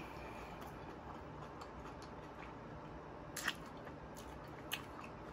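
Quiet close-miked chewing of a mouthful of chicken sandwich, with soft wet mouth clicks and two sharper smacks, one past the middle and another about a second later.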